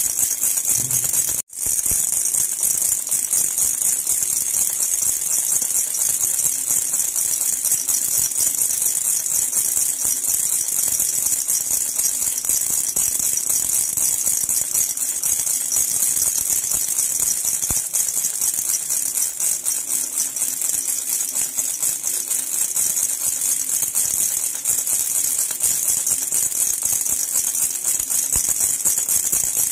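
Silver jhunjhuna baby rattle shaken continuously, a dense, steady high jingling that cuts out for an instant about a second and a half in.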